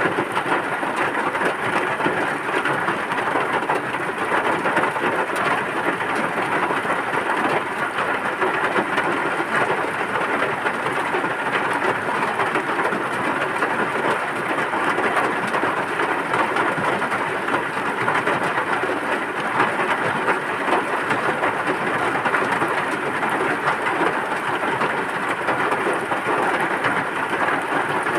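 Steady heavy rain: a continuous, even hiss of falling water with no breaks.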